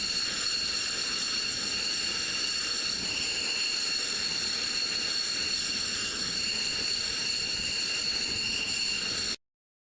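Jet engine running steadily: an even hiss with a high whine of several steady tones. It cuts off abruptly near the end.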